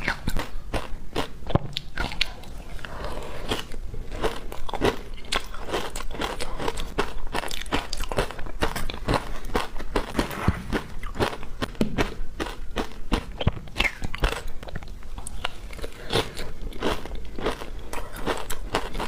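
Close-up biting and crunching of frozen matcha ice cubes, wet on the surface: a rapid, irregular run of sharp cracks and crunches.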